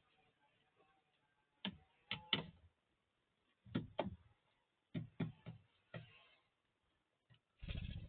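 Birds pecking at food: faint, irregular sharp taps, often two or three close together, with a longer scuffling knock near the end.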